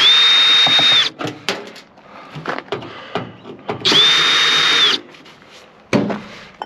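Power drill-driver backing out screws from a microwave oven's sheet-metal casing: two runs of about a second each, one at the start and one about four seconds in, each with a high motor whine that spins up and winds down, with small clicks of handling between them.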